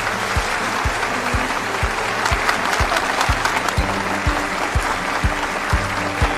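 Audience applauding over background music with a steady beat of about two low thumps a second.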